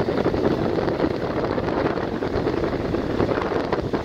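Passenger train running, heard from on board: a steady rumble and rattle of the carriage on the rails, with wind on the microphone.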